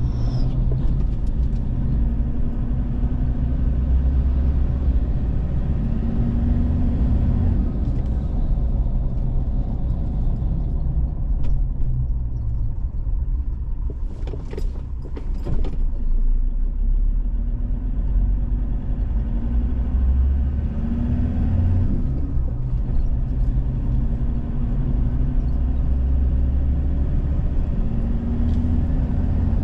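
Road vehicle on the move: steady low road and engine rumble, with the engine note rising and falling several times as it speeds up and eases off. A quieter patch with a few clicks comes about halfway through.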